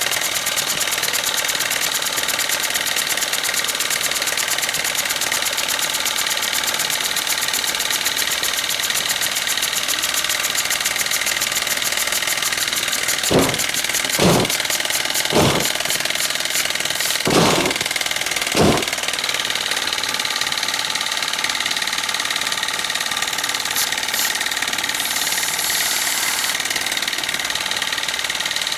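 Small steam engines running steadily, a homemade engine together with an antique Robert Fulton engine, with a fast, even chuffing beat. A handful of dull knocks come a little before the middle, and a short hiss comes later on.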